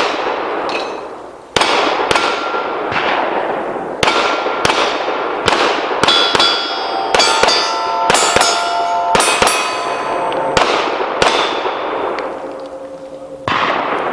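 Pistol shots fired in a rapid string at steel targets, roughly one every half second to a second, with the steel plates ringing out when hit. The ringing is thickest in the middle of the string, and a last shot comes about a second before the end.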